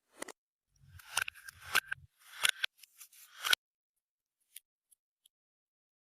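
Hands kneading and squeezing clear slime mixed with makeup and glitter, making a run of sticky clicks and crackling pops for a few seconds, then only a few faint clicks.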